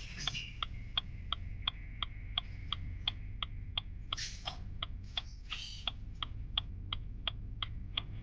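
A steady rhythmic ticking, about three short high clicks a second. Two brief hissing rustles come about four and five and a half seconds in, over a low steady hum.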